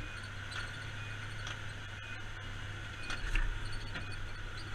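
Steady low engine hum with faint knocks about once a second, like walking footsteps, and a heavier thump a little after three seconds in.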